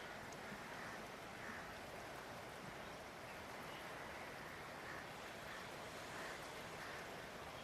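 Swollen floodwater rushing as a faint, steady, even noise.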